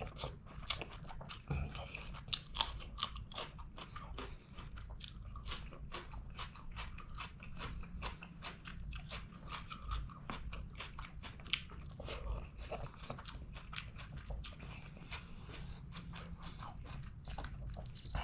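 Close-miked chewing and mouth sounds of a man eating rice and chicken curry by hand: a steady stream of short clicks and crunches, with a faint steady high tone in the background.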